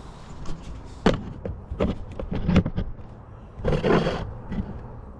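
Several knocks and thumps, then a short rushing noise about four seconds in.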